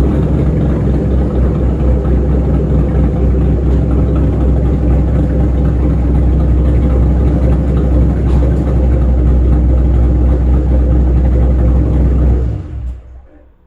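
Cammed 2010 Ford Mustang GT's 4.6-litre V8 idling through an SLP Loudmouth exhaust, a steady deep run. Near the end it dies away within about a second.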